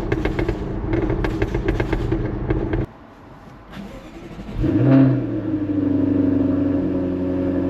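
Jaguar F-Type's supercharged V8 running under way. After a sudden break, the engine starts about four and a half seconds in with a brief flare of revs that rises and falls, then settles into a steady idle.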